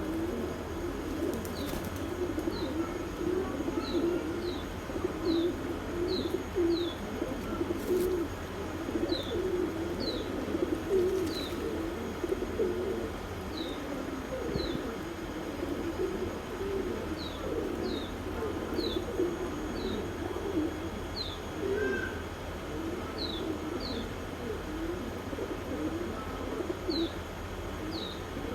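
A flock of domestic doves cooing continuously, many soft rolling coos overlapping. Short, high, falling chirps from a small bird come every second or so through the coos.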